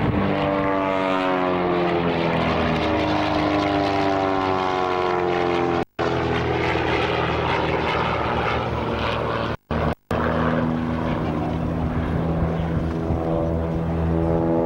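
Propeller aerobatic display aircraft's engine droning overhead, its pitch sliding down over the first few seconds as it passes and then holding steady. The sound cuts out briefly three times, about 6 s in and twice near 10 s.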